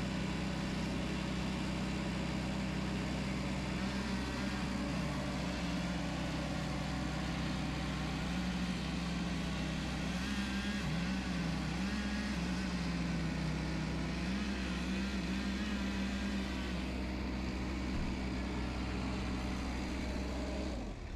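A machine engine running steadily for a long stretch, its speed rising and dipping several times partway through.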